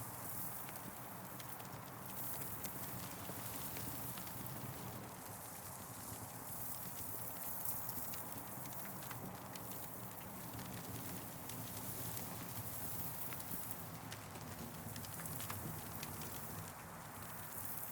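Campfire crackling: scattered sharp pops and snaps over a steady hiss that swells and fades every few seconds.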